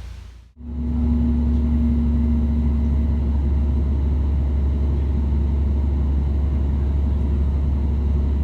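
Steady low rumble and hum of a passenger train running, heard from inside the carriage. It starts abruptly about half a second in, after a moment of silence.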